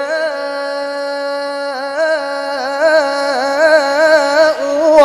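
A Qur'an reciter's solo voice chanting in melodic tajwid style. He holds one long, steady note on 'man', which breaks into wavering melodic turns about halfway through. 'Tasha'' begins near the end.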